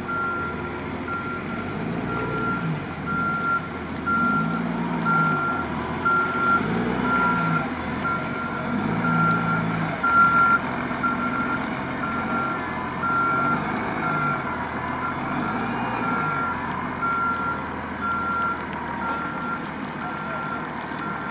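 A truck's reversing alarm beeping steadily, a little over once a second, over the rumble of its engine.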